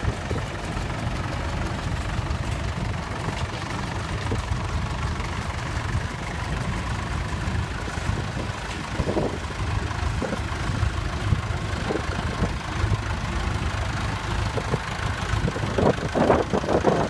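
Tractor engines running steadily at low speed.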